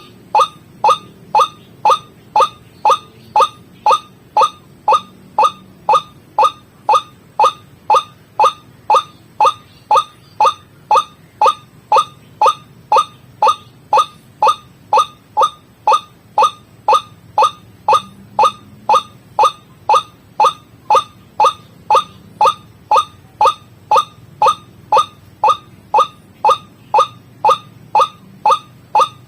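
White-breasted waterhen (ruak-ruak) lure call played on a loop: one short, falling 'kwak' note repeated at an even beat, about one and a half calls a second.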